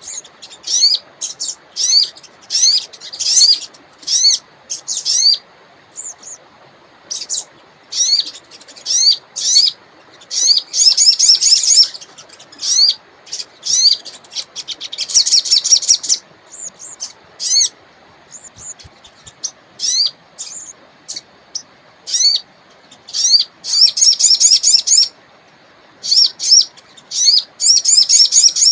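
A wild sogon songbird singing: rapid series of short, high, upward-sweeping chirps, breaking several times into dense fast trills. A faint steady river rush runs underneath.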